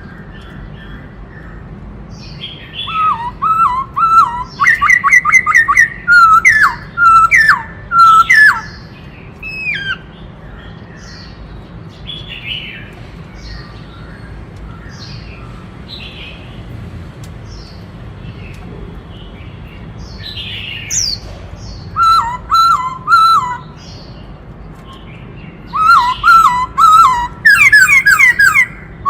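Black-throated laughingthrush singing: loud bouts of quickly repeated clear whistled notes, with pauses of several seconds between bouts.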